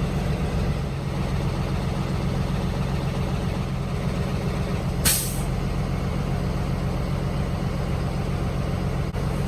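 Truck engine idling with a steady low rumble, and a single short, sharp hiss of air brakes about halfway through.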